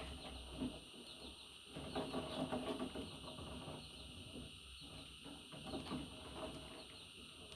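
Pet budgerigar chattering and chirping in quick, irregular runs.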